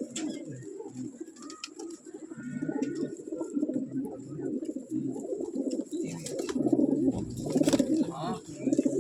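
Pigeons cooing in a continuous, overlapping low warble that grows louder in the second half, with a few faint clicks.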